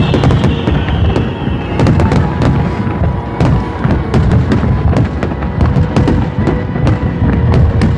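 Aerial fireworks display: a dense, rapid string of bangs and crackles from shells bursting in quick succession, with music playing alongside.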